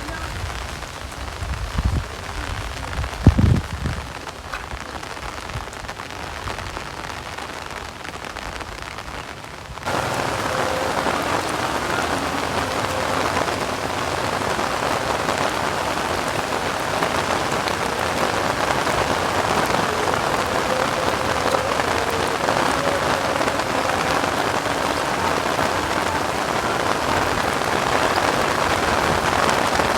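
Heavy rain pouring down as a steady hiss, with a few low thumps about two and three seconds in. Just before ten seconds in it jumps suddenly louder and denser, then keeps on steadily.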